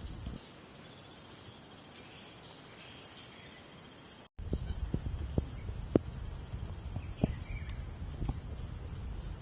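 Steady high-pitched shrilling of rainforest insects. About four seconds in the sound cuts out for a moment; after it, scattered knocks and a low rumble sit under the insect drone.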